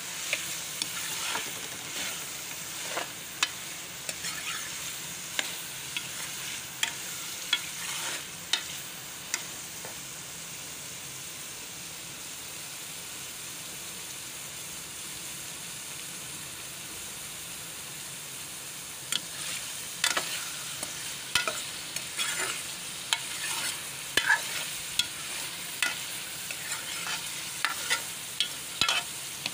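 Chopped bitter gourd (karela) sizzling as it fries in oil in a metal pot. A metal spoon stirs it, clinking and scraping against the pan over about the first ten seconds and again over the last ten, with only the steady sizzle in between.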